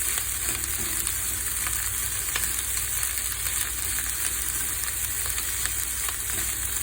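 Crab fried rice sizzling in a hot pan as it is stirred, a steady hiss broken by scattered light clicks.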